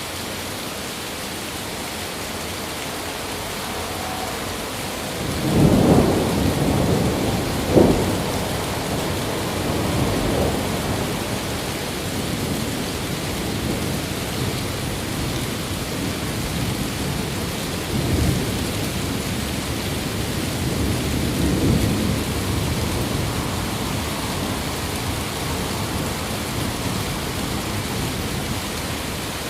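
Steady rain with a thunderclap rolling in about five seconds in, peaking twice in quick succession. It then rumbles on and off through the rest of the stretch, with smaller swells later.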